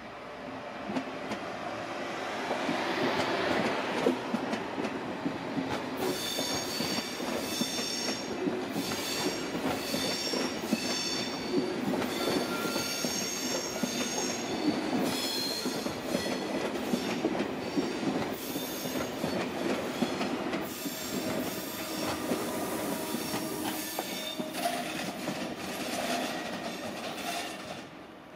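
SBB double-deck passenger train rolling slowly through the station over steady wheel-on-rail noise. About six seconds in, its wheels begin squealing on the curves in repeated high, piercing squeals that come and go until just before the end, when the sound drops away.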